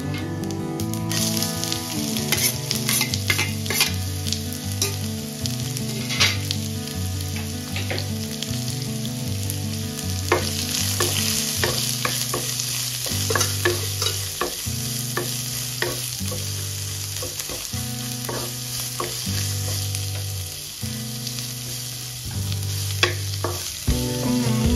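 Whole spices and then sliced onions sizzling in hot oil in a non-stick kadai. A wooden spatula stirs them, with frequent sharp taps and scrapes against the pan.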